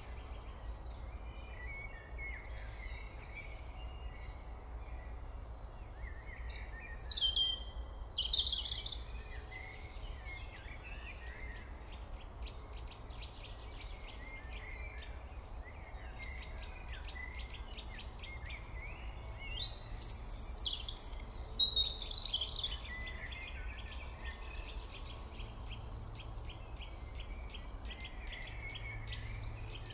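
Birds chirping and singing, with two louder bursts of song about seven and twenty seconds in, over a steady low hum.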